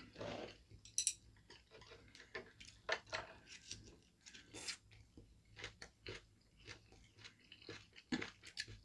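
People chewing food at close range: a string of short, irregular crunches and wet mouth clicks.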